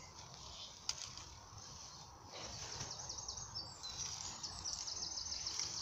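Small songbird singing a fast run of high chirps from about two and a half seconds in, over a low steady outdoor rumble; a single sharp click about a second in.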